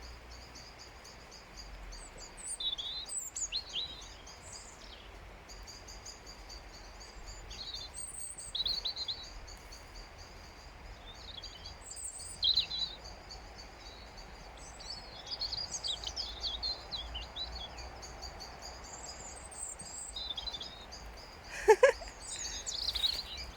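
A robin singing in short, high, warbling phrases with pauses between them, over a steady high-pitched background tone. A couple of sharp knocks near the end are the loudest sounds.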